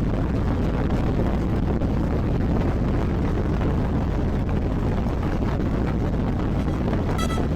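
Motorcycle running steadily at road speed, its engine noise mixed with heavy wind rush on the microphone. Near the end, a few pitched notes of music come in.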